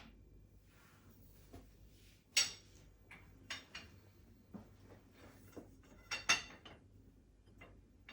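Scattered clicks and clinks of a metal hanger bar and its fittings being handled, with two louder knocks, one about two and a half seconds in and one about six seconds in.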